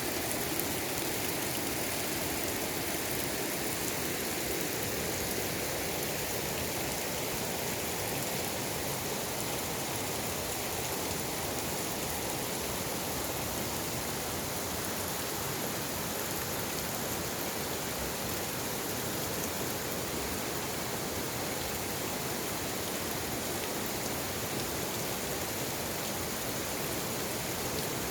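Mountain stream water flowing with a steady, unbroken rushing noise.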